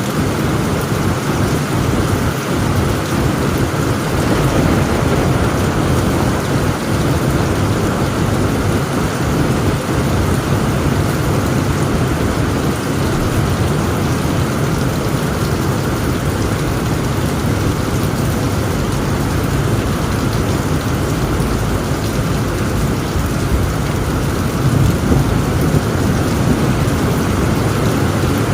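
Heavy rain pouring steadily on a tent roof, with a low rumble of thunder underneath and no sharp claps.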